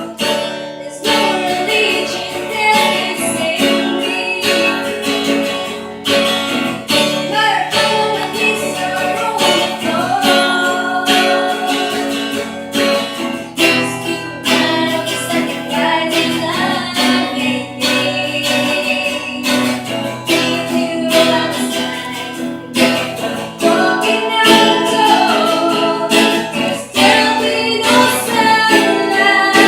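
A song: acoustic guitar strummed with a woman singing.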